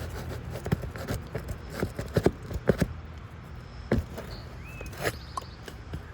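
Irregular sharp clicks and knocks of a roof snake nail-removal tool working under old asphalt shingles to pull out a roofing nail, over a steady low hum.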